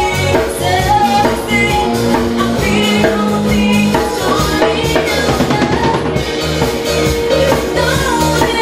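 A live band playing with a full drum kit keeping a steady beat, bass and melodic instruments, and some singing.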